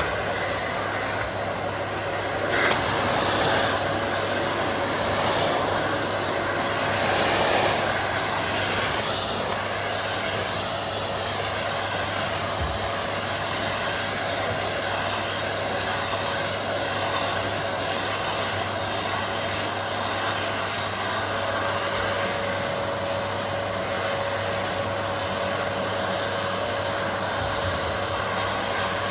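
Vacuum cleaner running steadily with a constant motor drone and a faint steady whine.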